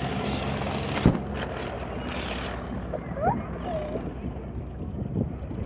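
Motorboat engine running steadily, with a sharp knock about a second in.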